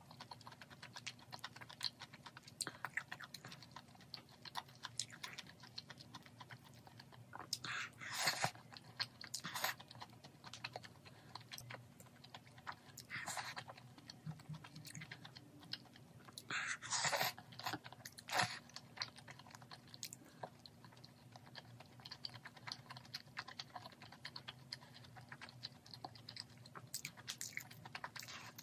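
Close-miked chewing and wet mouth clicks of someone eating spicy stir-fried beef intestines (makchang and gopchang) and seaweed rice balls, with several louder bursts of eating noise scattered through. A faint steady low hum runs underneath.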